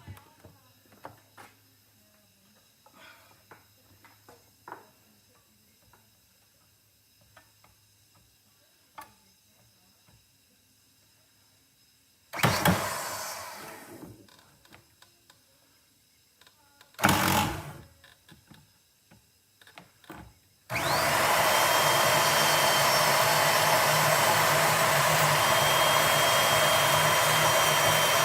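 Small clicks of tool handling, two short blips of a power cutting tool, then about two-thirds of the way in the cutting tool starts and runs steadily with a faint high whine, cutting a piece off a metal part to clear the disc brake caliper.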